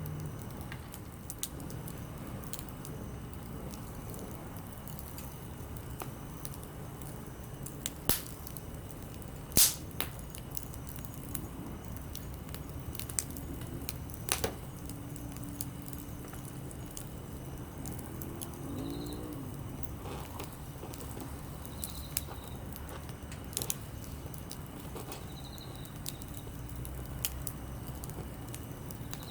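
Campfire of split softwood and hardwood firewood burning, with scattered sharp pops and crackles over a low steady rumble; the two loudest pops come about eight and ten seconds in.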